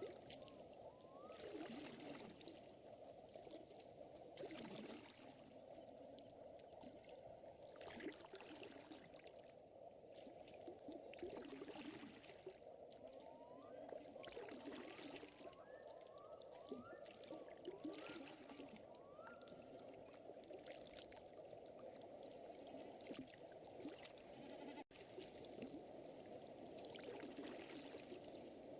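Faint lakeside ambience: water trickling and lapping steadily, swelling softly every second or two, with a scattering of short, rising chirps from a small animal.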